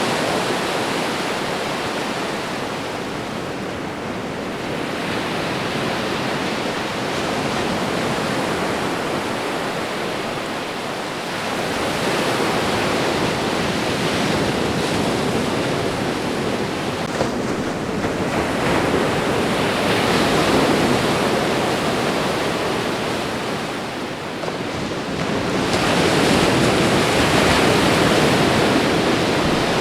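Ocean waves washing onto a shore: a steady rushing surf that swells louder and ebbs back about every seven to eight seconds.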